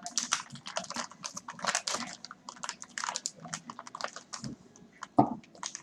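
Close-up eating sounds: rapid, irregular wet clicks and lip smacks of a person chewing food. Near the end there is one brief, louder hum.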